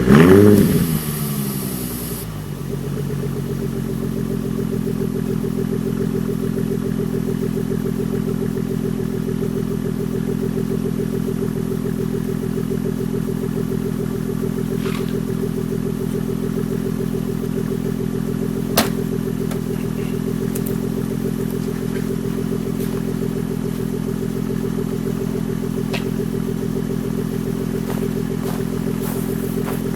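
2014 Ford Mustang's 3.7-litre V6 through a Borla ATAK exhaust, blipped once at the start with a quick rise and fall in pitch, then settling into a steady idle on a cold start. A single sharp click is heard about halfway through.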